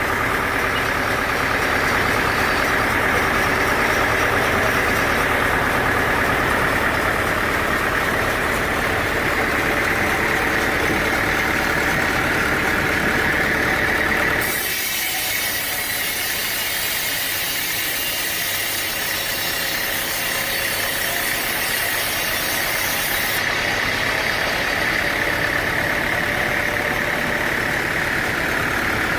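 Sawmill machinery running steadily: an engine with a strong whine. About halfway through the sound changes abruptly to a higher hiss with little low rumble for roughly nine seconds, then the steady engine sound returns.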